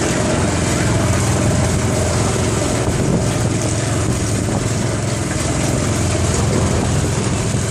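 A small boat's motor running steadily.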